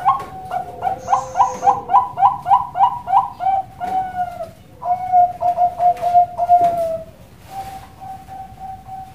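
Zebra dove (perkutut) cooing: a fast run of about ten short, clipped notes at roughly four a second, then a second run of coos, fading to softer notes near the end.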